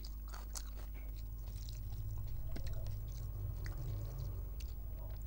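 A person chewing a mouthful of rice with her mouth, with scattered wet clicks and smacks.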